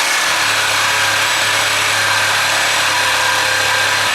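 Reciprocating saw cutting through a Miata's steel exhaust pipe, running loud and steady, then stopping near the end as the muffler section comes free.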